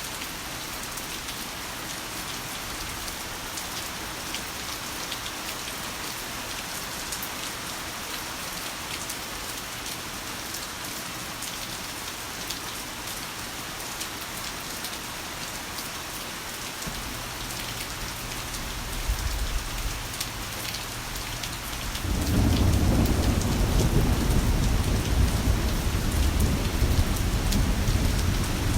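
Heavy rain falling steadily. A little past the middle a low rumble of thunder begins, growing to loud rolling thunder about three-quarters of the way through.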